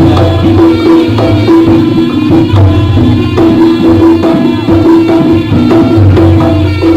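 Jaranan gamelan music played live and loud: hand drums keep a driving, even beat under sustained ringing pitched notes from tuned percussion.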